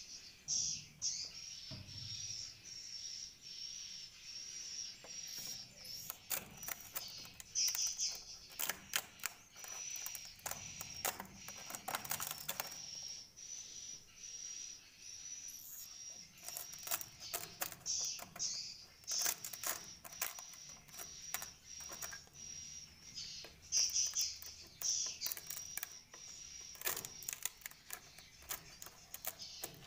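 Rapid, irregular clicking and tapping over a steady high-pitched tone, in dense clusters every few seconds.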